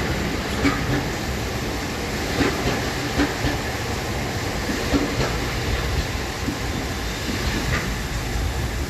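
A train running along the station track: a steady rumble with a few irregular knocks and clacks of the wheels over rail joints.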